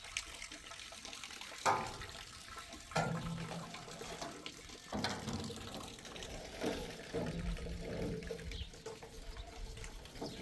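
Water running and splashing, with a few sharp knocks about two, three and five seconds in.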